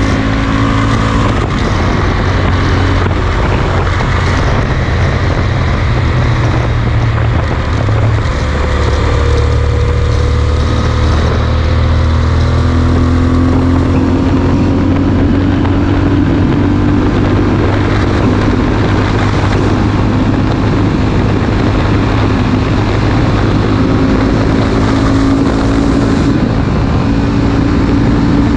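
Yamaha Super Ténéré's parallel-twin engine with a Mivv Speed Edge slip-on exhaust, running steadily at motorway cruising speed, mixed with wind rushing past the bike.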